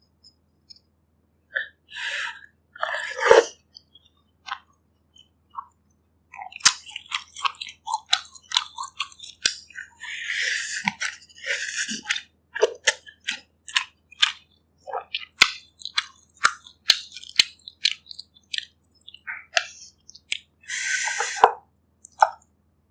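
Close-miked eating sounds of bak kut teh pork ribs and broth: wet chewing and mouth noises with many sharp clicks, broken by a few longer noisy stretches about two, ten and twenty-one seconds in.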